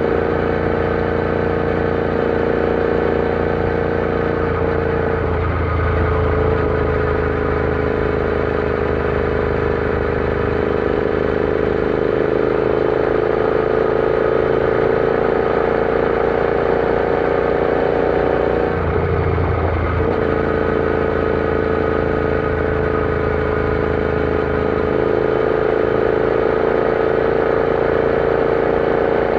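Royal Enfield Interceptor 650's parallel-twin engine running under way at steady cruising revs, its note slowly sinking and rising again. The note breaks off briefly twice, about five seconds in and again near nineteen seconds, then picks up again.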